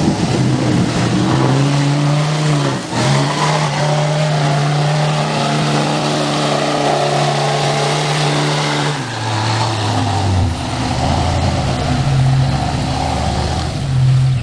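A vehicle engine running at a steady speed, dropping to a lower, slower note about nine seconds in.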